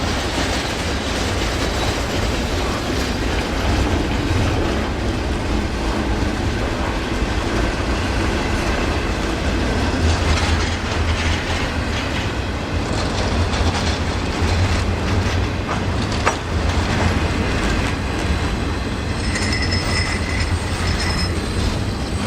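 Train rolling past at speed with a steady heavy rumble and the clickety-clack of wheels over the rails, a sharp click about 16 seconds in, and a faint high wheel squeal near the end.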